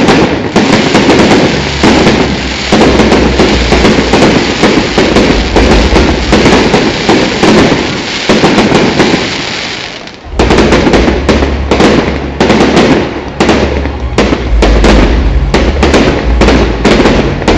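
Fireworks display: a dense barrage of bangs and crackling that eases off briefly about ten seconds in, then starts again.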